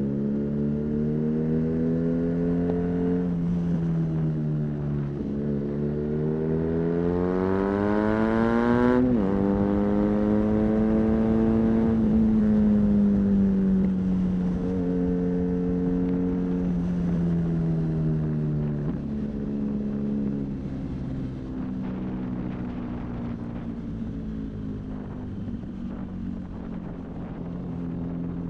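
BMW R nineT's air/oil-cooled boxer twin through an Arrow high-mounted exhaust, accelerating with its pitch climbing and dropping sharply at gear changes about 3 and 9 seconds in, the loudest pull just before the second shift. The engine then rises and falls through the middle, eases off about two-thirds of the way through, and runs at a lower, steadier note under a low rumble of wind and road noise.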